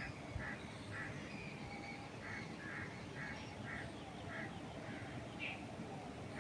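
A bird calling in a steady series of short notes, about two a second, with a few fainter chirps from other birds over a low, even rush of wind.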